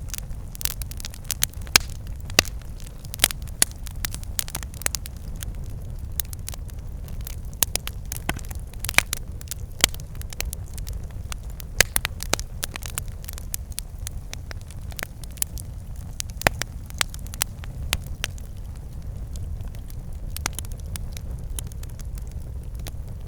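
Firewood burning with irregular sharp snaps and pops over a steady low rumble. The pops come thick in the first half and thin out later.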